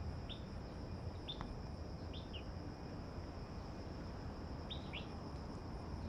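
A bird giving short, high chirps every second or so, a few in quick pairs, over a steady high-pitched insect drone.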